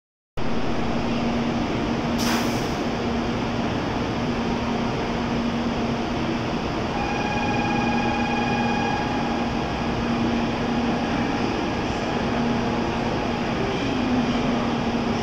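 N700-series Shinkansen train standing at the platform: steady running noise with a low hum that pulses on and off. A brief hiss comes about two seconds in, and a steady whine from the train joins about seven seconds in.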